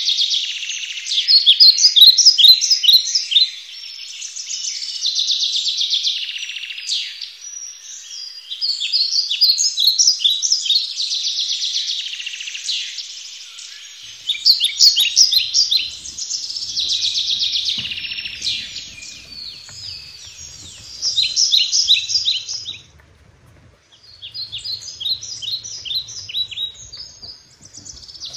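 Songbirds singing close by: loud runs of rapid chirping notes in phrases of a few seconds each, separated by short pauses, with one brief silence near the end.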